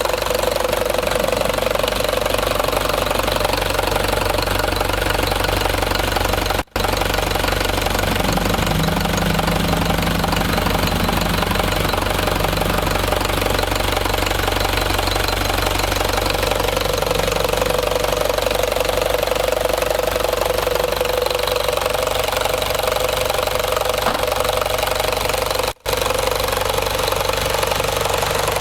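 1998 Mitsubishi FE diesel engine running steadily, with two very brief breaks in the sound.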